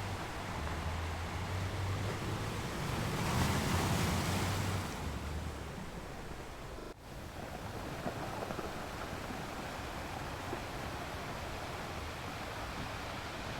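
Ocean surf washing steadily, with one wave swelling louder about three to five seconds in and then easing off. A brief dropout in the sound about seven seconds in.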